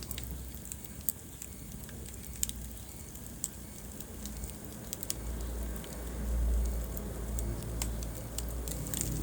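Wood fire crackling in a fireplace, with scattered sharp pops and snaps over a low rumble that swells about halfway through.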